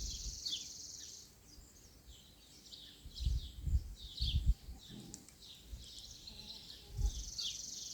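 Outdoor ambience: small birds chirping over and over in short falling calls, and an insect's steady high buzz that stops about a second in and comes back near the end. A few low thumps in the middle.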